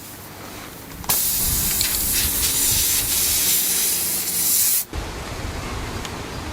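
Compressed air hissing in one steady burst of nearly four seconds, starting and stopping suddenly, during the plugging of a screw puncture in a car tire.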